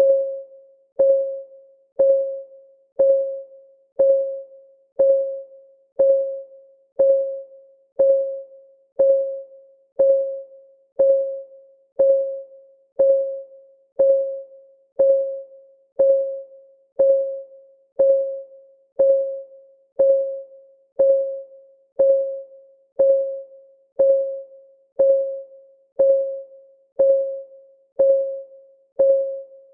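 Clock ticking sound effect: a steady tick once a second, each a short pitched click that rings briefly and dies away.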